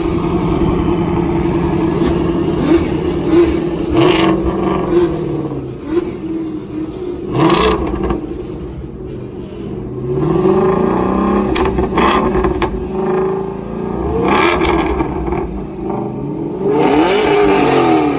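Car engine revving hard, its pitch climbing and falling again and again, with sharp short bursts of noise in between.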